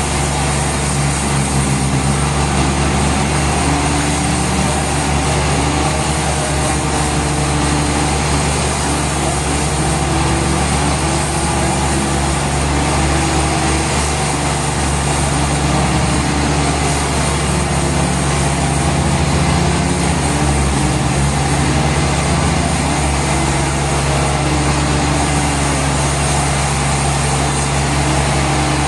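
Sawmill machinery running steadily, a heavy engine droning continuously.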